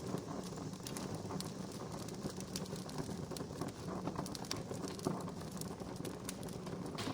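Wood fire crackling steadily, with frequent sharp pops over a soft hiss; one louder pop about five seconds in.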